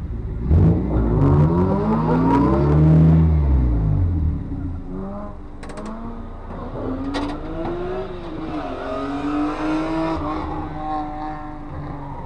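A car's engine on an autocross course, revving up hard and loud for the first few seconds, then falling away. It keeps running more quietly after that, its pitch rising and dropping as the driver works through the course.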